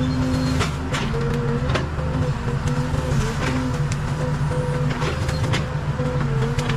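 Case 580 Super K backhoe loader's diesel engine running steadily, its pitch stepping a little up and down as the machine works, with scattered sharp knocks over it.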